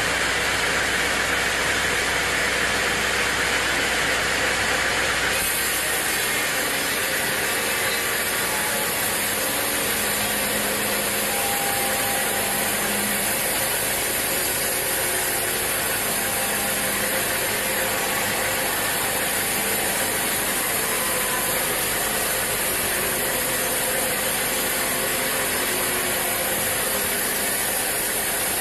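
Sawmill saw machinery running steadily with a dense mechanical clatter. About five seconds in the sound changes, turning hissier.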